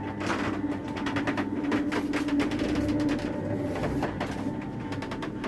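SWS electric garage door's motor running as the door lifts, a steady hum with a continuous rapid rattling and clicking from the moving door.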